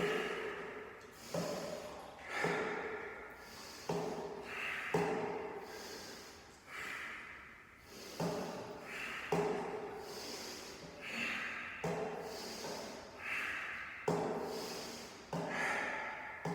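A person breathing fast and deeply in the Wim Hof style, with loud inhales and exhales alternating. Each breath in or out lasts about a second, so there is one full breath roughly every two seconds, keeping a steady rhythm throughout.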